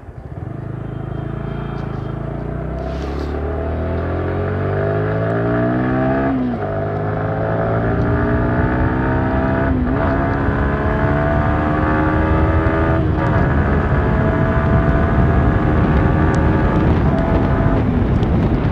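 Motorcycle engine accelerating hard, its pitch climbing in each gear and dropping at four upshifts, with wind rush growing as speed builds.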